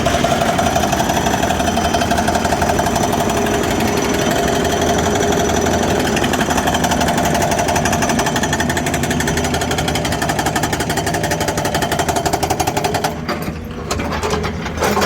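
Hydraulic breaker on a Hyundai 220LC-9S excavator hammering at a thick wall in fast, continuous blows over the excavator's engine. The hammering stops briefly about thirteen seconds in and starts again near the end.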